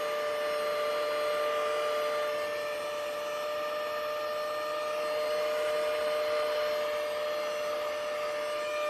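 JAMAY cordless handheld mini vacuum cleaner running steadily: a small-motor whine of a few held tones over the hiss of air being drawn through.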